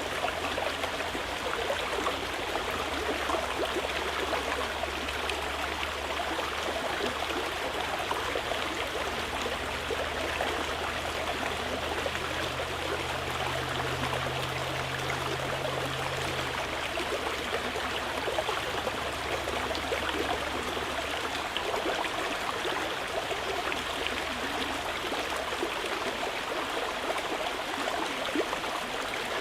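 Mountain river flowing over rocks, a steady even rush of water.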